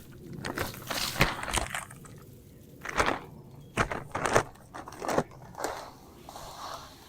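An irregular run of short crunches and rustles, about ten in all, with the loudest near one, three and four seconds in.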